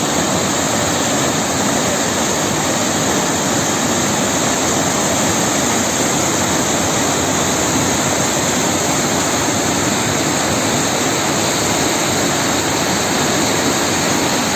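A river in flood pouring over a weir: a loud, steady rush of water.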